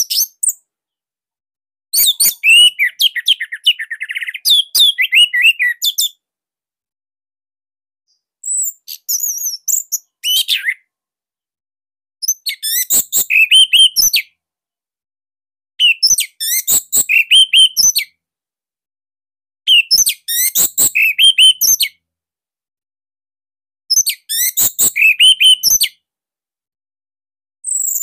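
Orange-headed thrush singing: phrases of fast, varied chirps and whistles, mostly about two seconds long, separated by gaps of about two seconds.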